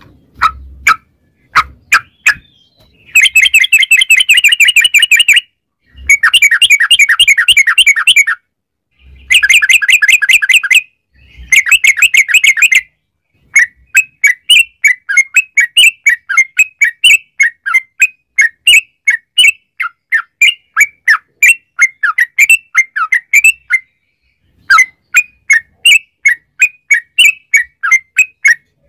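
Sooty-headed bulbul (trucukan) singing its long rapid 'ropel' song: a few short calls, then several dense chattering trills of about two seconds each, then a long string of quick repeated notes, with abrupt silent gaps between the runs.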